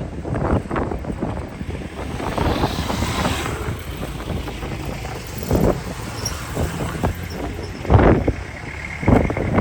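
Strong wind gusting and buffeting the microphone in uneven swells, with a rushing gust about three seconds in and sharper blasts later on.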